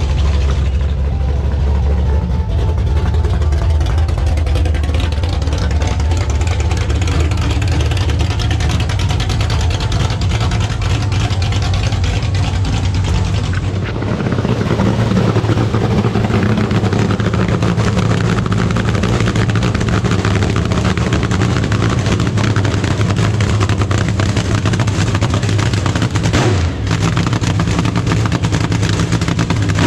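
Car engine running with a loud, steady low rumble; its tone shifts about halfway through.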